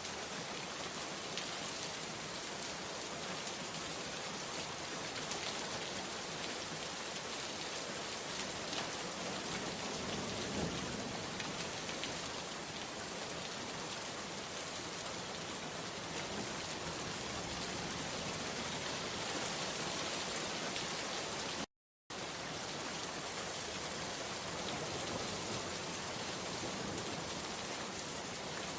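Steady rain falling, an even hiss of drops. It cuts out completely for a split second about 22 seconds in, then resumes unchanged.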